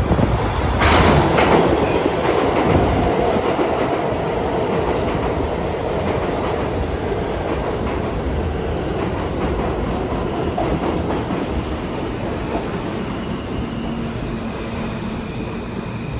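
New York City subway train running through an underground station, its wheels clattering over the rail joints. The sound is loudest with a sharp burst about a second in, then fades slowly.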